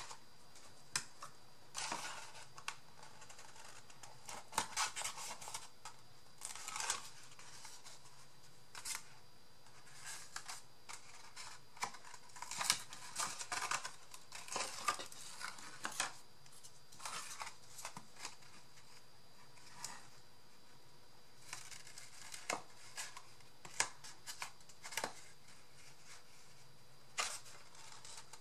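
Paper and cardboard being handled and pressed, heard as irregular rustles, crinkles and small taps.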